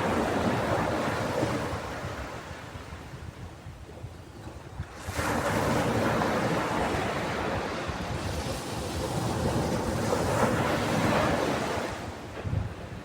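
Sea waves on a beach: one wash fades out over the first few seconds, then a new wave breaks suddenly about five seconds in and rushes up the shore, dying away near the end.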